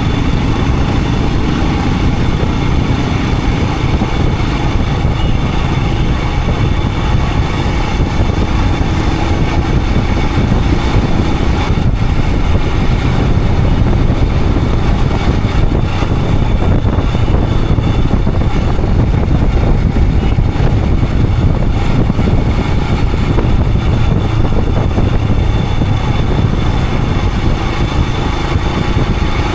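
Royal Enfield Himalayan 411's single-cylinder engine running steadily under way, mixed with a dense rush of wind and road noise.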